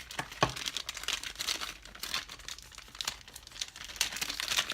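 Packaging crinkling and rustling as a small fitting is unwrapped by hand, in irregular crackles, with a knock about half a second in.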